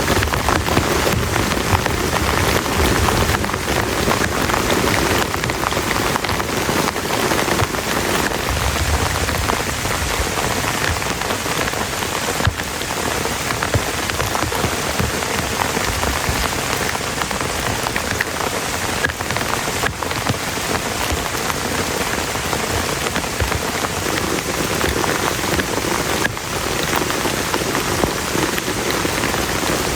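Heavy rain falling steadily and loudly, a dense hiss with individual drops striking close by.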